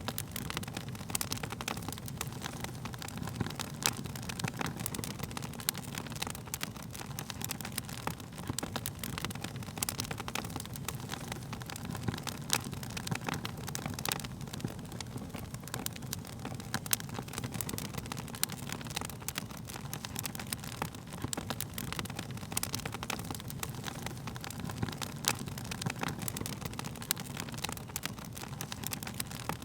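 Wood fire burning, with frequent irregular crackles and pops of the burning wood over a steady low rumble of the flames.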